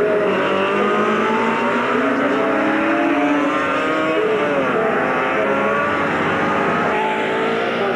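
A pack of racing motorcycles at full throttle together. Several engine notes overlap, each climbing in pitch and dropping back as the bikes change gear.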